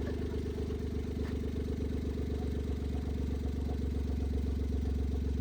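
Car engine running steadily at idle, getting a little louder toward the end.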